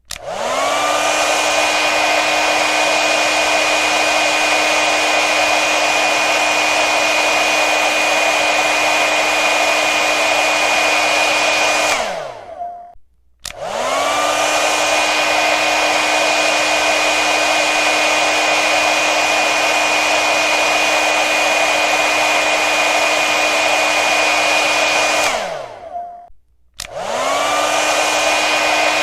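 Hair dryer blowing steadily, a rush of air over a steady motor whine. About every 13 seconds it cuts out: the whine drops in pitch and dies away, there is a brief silence, then the motor spins back up to full speed (just after the start, at about 13 seconds in, and again near the end).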